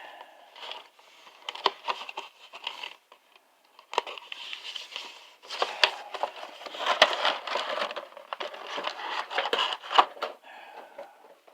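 Action-figure window box and its plastic tray being worked open by hand from the bottom: irregular rustling of cardboard and plastic with many sharp clicks and snaps, busiest in the second half.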